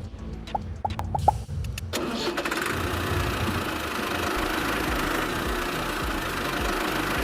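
A few light clicks, then a motor starts about two seconds in and runs steadily with a low, even throb.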